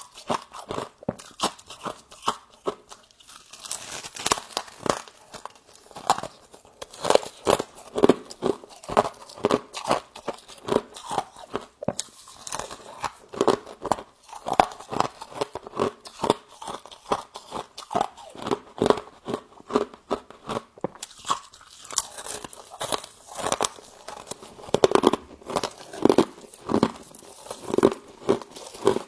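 Close-miked crunching and chewing of humidifier frost: dense, irregular crunches, several a second, as frozen ice crystals are bitten and chewed.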